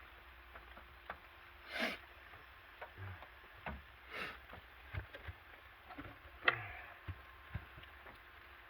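Hands handling a scale RC rock crawler's plastic body and chassis: scattered small clicks and knocks, two short rustles, and one sharp click about six and a half seconds in.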